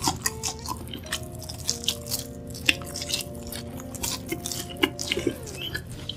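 Close-miked chewing and biting of a fried mozzarella cheese stick, with irregular sharp mouth clicks and smacks. Soft background music plays underneath.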